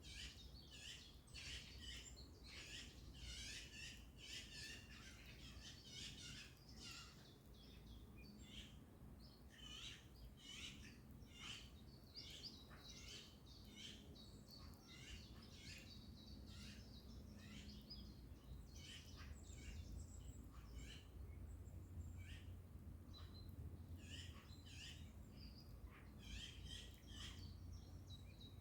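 Birds singing and calling, faint: many quick overlapping chirps and short phrases, over a low steady rumble.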